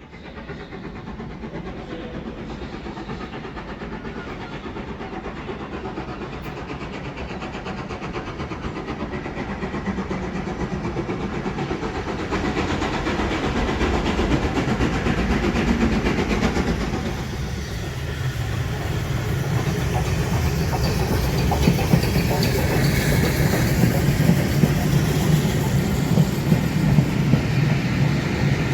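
A train running on the rails, getting steadily louder as it comes nearer, loudest over the last ten seconds or so.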